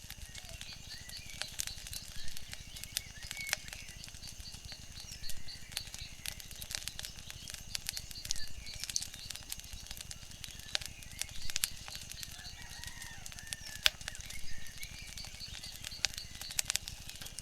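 Wood fire crackling, with sharp irregular pops and snaps over a steady hiss. Faint bird chirps come and go behind it.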